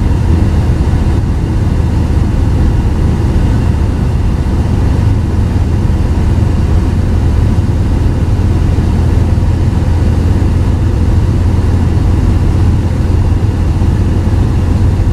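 Steady low drone of a car on the move, engine and road noise together, unchanging throughout.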